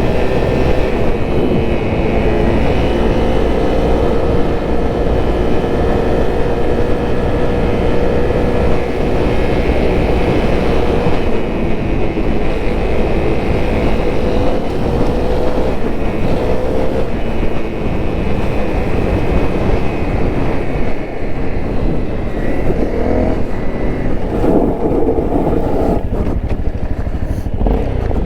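Honda CRF250L's single-cylinder four-stroke engine running steadily while riding, over a low rumble of wind and road noise. Its pitch rises and falls a few times near the end.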